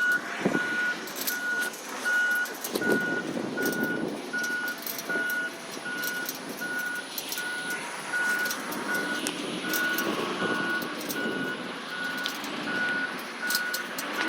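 A recycling truck's reverse alarm beeps steadily as the truck backs up, a single high tone repeating about three times every two seconds. The truck's engine runs underneath, with scattered light clatters.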